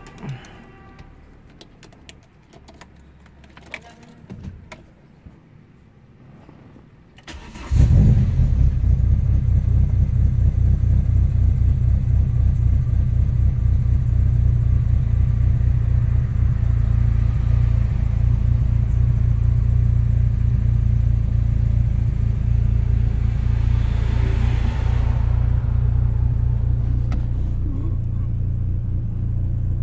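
Renault Clio Sport's engine starting about seven and a half seconds in, after a few small clicks with the engine off, then running steadily with a deep low drone heard from inside the cabin.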